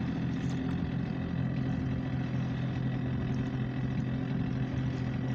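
Pleasure boat's engine running with a steady, even hum as the boat comes in to moor at a pier.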